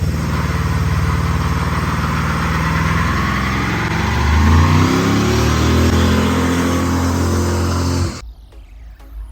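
Car engine revving hard through a one-wheel-peel burnout, a single driven tyre spinning and squealing against the pavement. The engine pitch climbs about halfway through, and the sound cuts off suddenly about eight seconds in.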